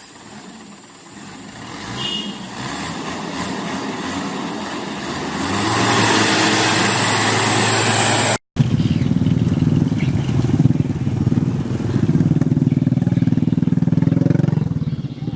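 Mitsubishi Canter light truck's engine labouring under load, growing louder over the first six seconds. After a sudden break, it runs louder and lower with a pulsing beat.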